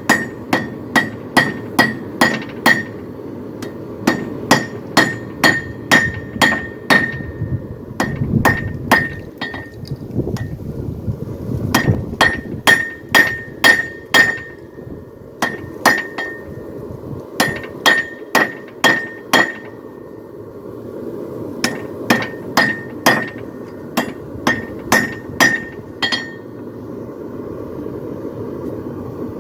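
Hand hammer striking a hot steel poleaxe spike on an anvil, each blow giving a sharp ringing ping, about three blows a second in runs of several with short pauses between. A steady low rushing noise runs underneath.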